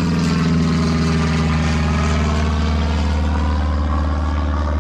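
Steady engine drone with a strong low hum, its pitch drifting slowly down and back up.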